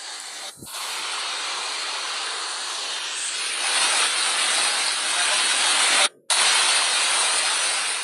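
Steady hissing rush of water, broken by a short gap just after six seconds in.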